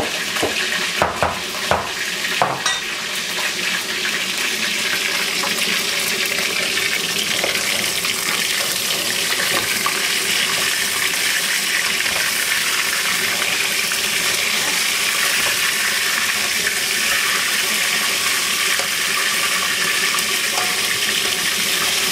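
Chicken wings frying in a pan, a steady sizzling hiss, with a few knocks of a utensil against the pan in the first three seconds.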